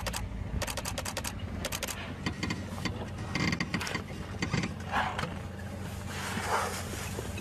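Camera shutters firing in short rapid bursts, about ten clicks a second, three bursts in the first two seconds. A vehicle engine idles low underneath.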